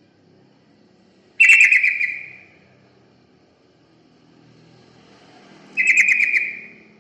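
Yellow-vented bulbul (trucukan) calling: two short, loud, rattling phrases about four seconds apart, each fading away over about a second.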